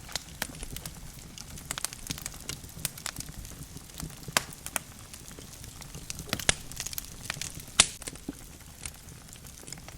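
Wood fire burning in a fireplace: logs crackling and popping at irregular moments over a low steady rumble of the flames, with one sharp loud snap near the end.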